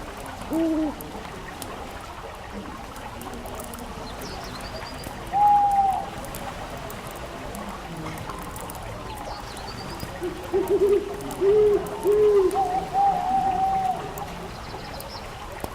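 Owl hooting in short notes: a couple near the start, one about five seconds in, then a run of three and a longer note from about ten seconds in. Underneath is a steady hiss with faint crackles from a fireplace fire.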